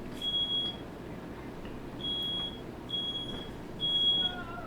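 Smoke alarm beeping: a single high-pitched tone of about half a second, sounding four times with short gaps, set off by smoke from a firework lit indoors.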